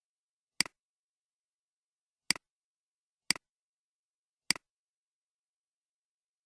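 Four computer mouse clicks at uneven intervals, each a sharp click followed at once by a softer one, with dead silence between.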